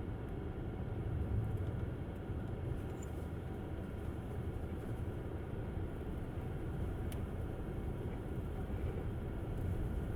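Tesla Model S driving on snowy roads: a steady low rumble of tyre and road noise, with no engine note. A faint click about seven seconds in.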